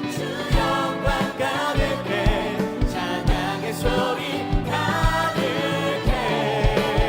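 Live contemporary worship band with several singers performing a praise song over a steady drum beat.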